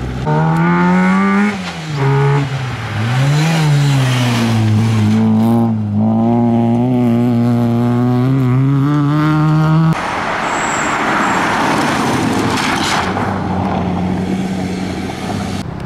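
A car engine revving hard close by, its pitch climbing and falling as it accelerates and shifts, with a brief lift off the throttle about two seconds in. About ten seconds in it gives way suddenly to a steady rushing noise.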